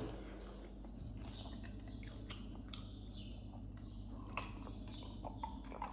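Quiet chewing and small mouth sounds of a person eating noodles, with faint scattered clicks, over a steady low hum.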